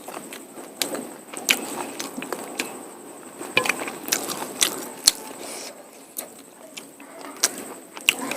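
A person eating mutton curry with polao rice, chewing with irregular wet mouth clicks and smacks.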